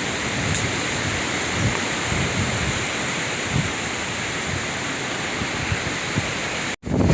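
Strong gusty wind making a steady rushing noise, with low rumbles of wind buffeting the microphone. The sound drops out abruptly near the end.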